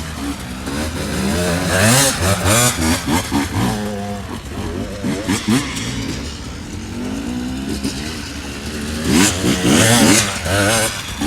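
Dirt bike engine being ridden off-road, revving up and down with the throttle; the revs climb hardest about two seconds in and again near the end.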